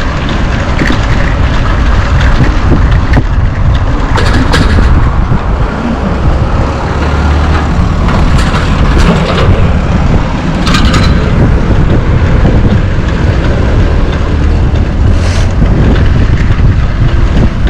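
Wind buffeting the microphone while cycling, a loud, steady rumble, with a few brief clatters over about a dozen seconds.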